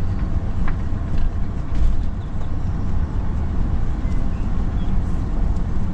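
Steady low rumble of the RV driving along the road.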